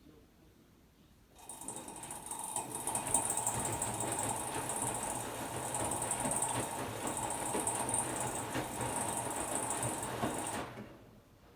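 Hotpoint-Ariston AQD972F washer-dryer running with a steady mechanical whir. The whir starts about a second and a half in and stops abruptly about a second before the end.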